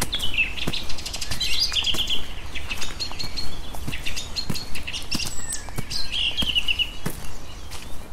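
Birds singing: a series of whistled chirps and short rapid trills, with many sharp ticks in between.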